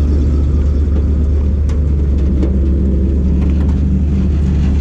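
Ford F700 truck's 370 V8 petrol engine running steadily at a raised idle of about 1200–1300 RPM, driving the hydraulic pump that turns the spreader's web chain. A deep, even drone with a few light clicks over it.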